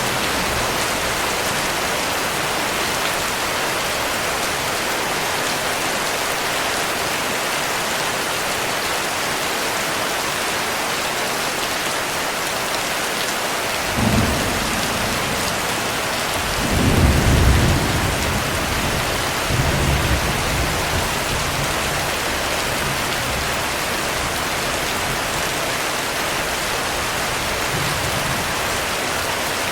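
Steady heavy rainfall hissing throughout. About halfway through, a roll of thunder rumbles up with a short swell, then a louder peak a few seconds later, and dies away after a weaker trailing rumble.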